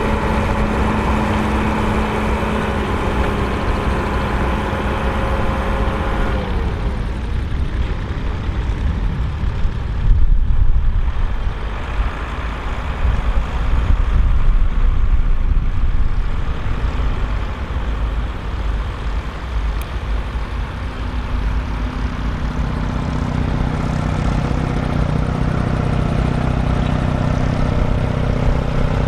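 Volvo BM 2654 tractor's diesel engine running at steady revs; its pitch drops about six seconds in. A low rumble takes over in the middle, and a steady, lower engine note returns in the last few seconds.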